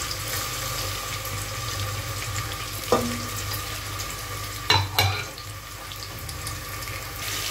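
Chopped onions frying in hot oil: a steady sizzle, with a few sharp knocks about three and five seconds in.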